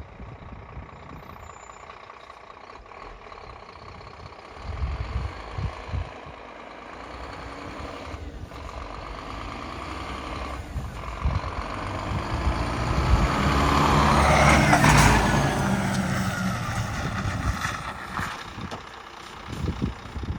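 Scania R440 truck's 13-litre six-cylinder diesel engine running, growing louder to a peak about fifteen seconds in, where a sharp air hiss sounds, then easing off.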